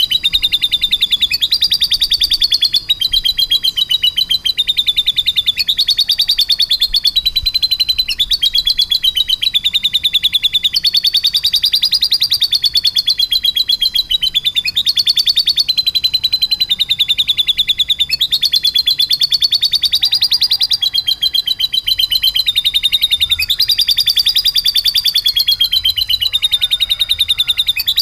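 Domestic canary singing without pause in a fast, rolling trill of high notes, shifting to a new phrase every second or two. The song is lovebird-style material that the canary has been trained to copy.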